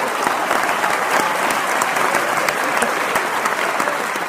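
Applause: dense, steady clapping of many hands.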